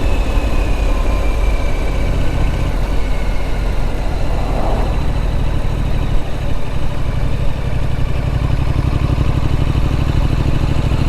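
Triumph Street Scrambler's 900 cc parallel-twin engine running steadily on the move, with a short dip about six seconds in.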